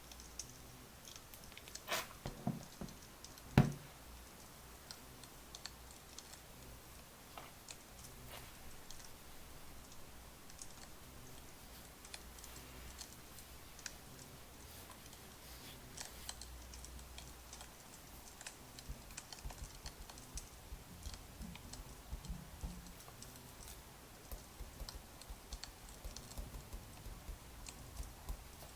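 Burning firewood crackling, with scattered small sharp pops over a low steady hum. Two louder knocks come about two and three and a half seconds in.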